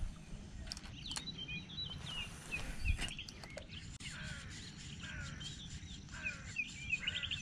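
Small birds chirping over and over in short, quick falling chirps, over a low rumble with a few faint clicks.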